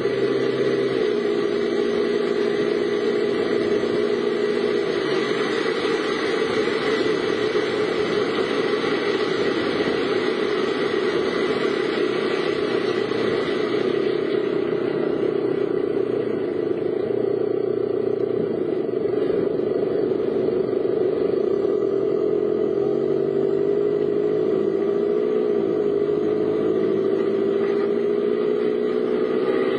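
Car engine running while driving, a steady drone whose pitch wavers and shifts about three-quarters of the way through, over a hiss of road noise that thins out about halfway.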